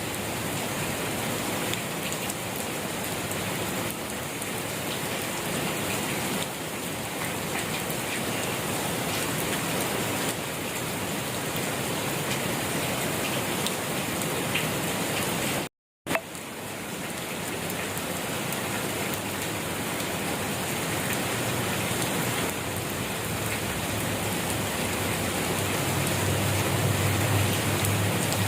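Steady rain falling on a surface, a dense even patter with no let-up. The sound cuts out for a moment about halfway through, and a low rumble swells under the rain near the end.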